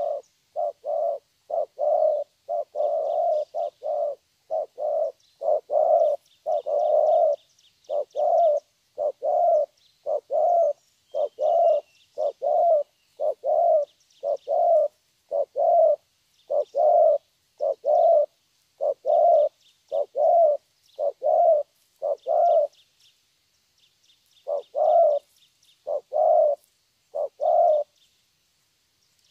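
A young spotted dove cooing over and over in a steady series of low notes, the 'thổ' calling style that dove keepers prize in a decoy bird. The calling stops for about a second and a half about 23 seconds in, then resumes.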